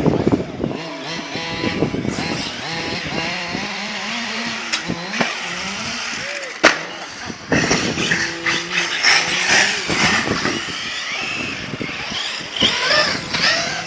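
Radio-controlled car's motor revving up and down, its pitch rising and falling, with a sharp knock about six and a half seconds in.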